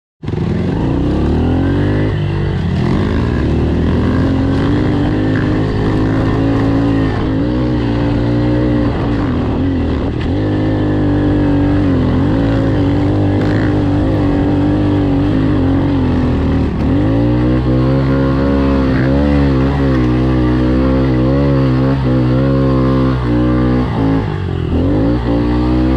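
Honda CRF dirt bike's single-cylinder four-stroke engine being ridden, its pitch rising and falling continuously as the throttle is worked. It drops away and climbs back up twice: once about two-thirds of the way through and again near the end.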